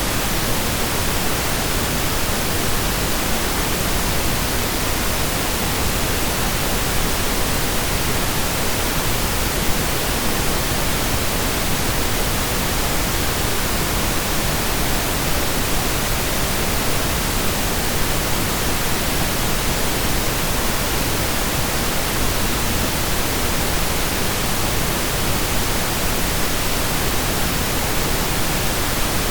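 Steady synthesized pink noise: an even, unchanging hiss spread evenly across the whole range, like steady rain or a waterfall.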